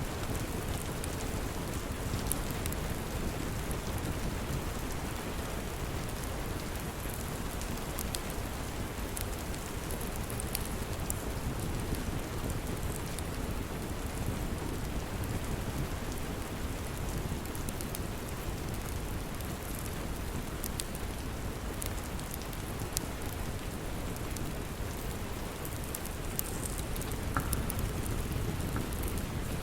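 Steady, even rain, heaviest in the low end, with scattered sharp crackles and pops from a wood fire.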